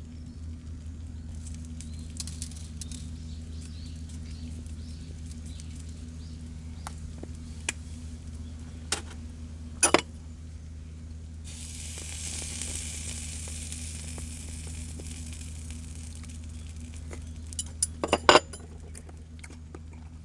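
Food sizzling in a pan for several seconds midway through, with a few sharp clinks of metal cookware and utensils before and after it. A steady low hum runs underneath.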